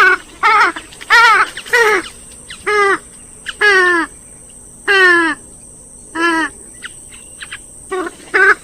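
Loud, repeated calls of a swamphen or moorhen-type rail, played back as a lure recording: a series of squawks, each sliding down in pitch, about one a second, with a short lull a little past the middle.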